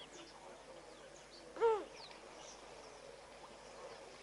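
A bird gives one short, arched call, rising then falling in pitch, about one and a half seconds in, over faint high chirps of small birds.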